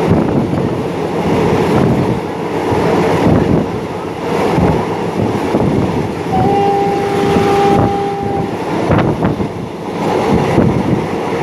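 Passenger train running, heard from a carriage window: a steady rumble of wheels on rail with some wind noise. About six seconds in, the Alsthom diesel-electric locomotive at the head sounds its horn in one steady blast of about two seconds.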